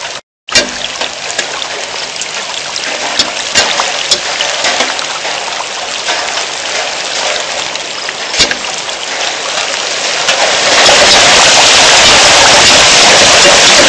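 Heavy rain falling, a steady hiss scattered with sharp clicks of drops striking close by. It becomes louder and denser about eleven seconds in as the downpour intensifies.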